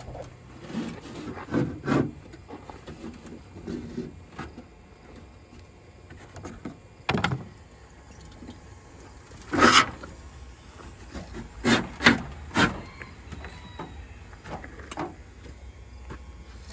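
Irregular metal clunks and knocks as a homemade sheet-metal tailgate is handled and set in place, a handful of separate strikes with the loudest about ten seconds in.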